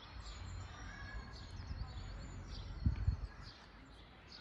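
Forest songbirds chirping and calling in many short, high notes over a low rumble, with two low thumps in quick succession about three seconds in.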